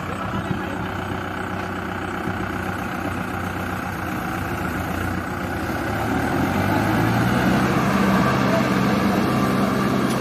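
Heavy diesel engine running steadily, then revved harder and louder about six seconds in, as if put under load.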